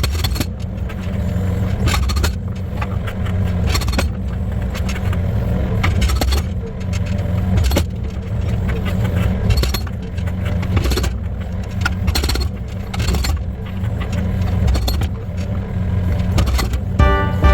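Excavator engine running steadily under load while its hydraulic breaker's chisel works into oak logs, with irregular sharp knocks and cracks as the wood is struck and split.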